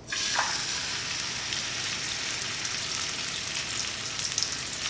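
Raw chicken breast sizzling in hot avocado oil in a nonstick frying pan: the sizzle starts suddenly as the meat is laid in, then runs on as a steady hiss with fine crackles.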